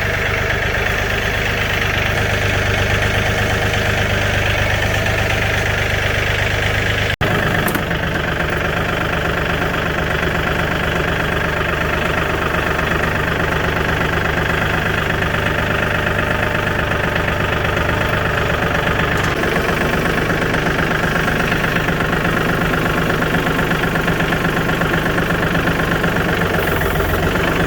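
6.2-litre V8 diesel engine of a 1985 GMC C30 pickup running steadily with diesel clatter. The sound cuts abruptly about seven seconds in and picks up again with a slightly different note.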